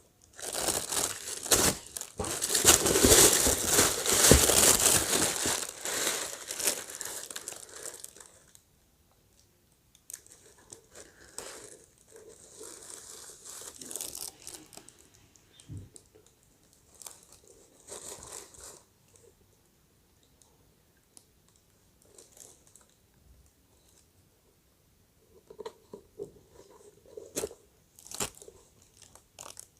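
Shoe packaging being unwrapped by hand: loud crinkling and tearing for the first eight seconds or so, then quieter, scattered rustles and handling sounds.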